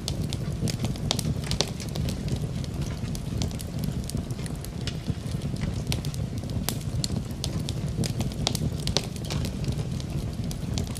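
Wood fire in a fireplace crackling, with frequent irregular sharp pops over a steady low rumble, mixed with rain.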